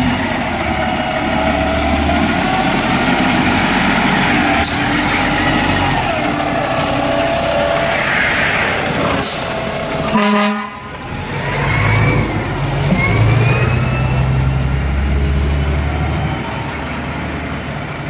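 Fire engine pulling out on a call, its engine running loudly, with a short horn blast about ten seconds in and a rising siren wail after it.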